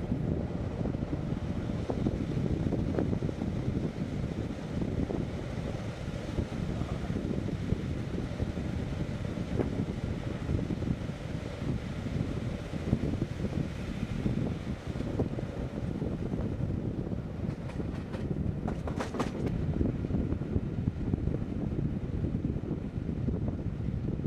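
Passenger train running along the track, a steady rumble of wheels and carriage heard from inside the coach, with a few brief higher hisses about three quarters of the way through.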